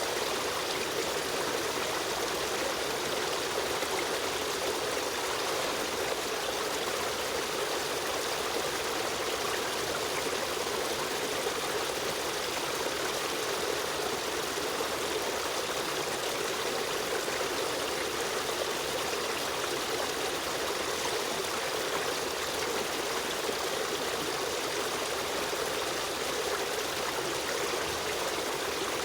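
Running water of a river stream, flowing steadily with an even rushing and trickling sound that never lets up.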